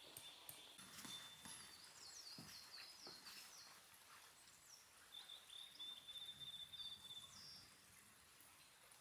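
Faint forest birdsong: a quick run of high, down-slurred whistled notes a couple of seconds in, and a thin, high, steady trill near the start and again in the middle.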